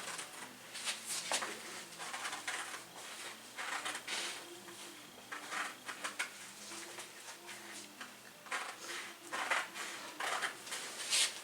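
Serrated-blade fabric scissors snipping through cloth, a run of short irregular cuts.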